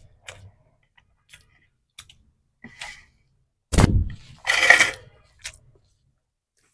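Close-miked mukbang eating sounds: scattered small mouth clicks and smacks, a heavy bump about four seconds in, then a half-second noisy burst of biting or breath.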